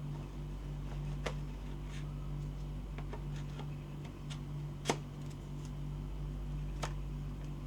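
Scattered light clicks and taps from handling a gel blaster and its packaging during unboxing, the sharpest about five seconds in, over a steady low hum.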